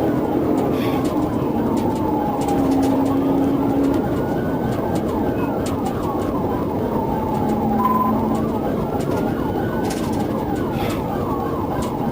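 Police sirens: one wailing slowly up and down about every five seconds, another yelping rapidly alongside it. Engine and road noise run underneath.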